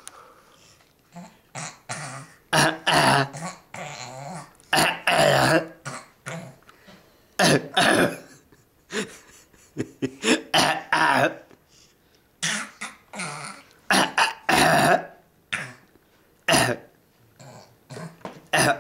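A person making silly vocal noises with the throat and mouth: a string of short throaty sounds, some pitched and drawn out, with short gaps between them.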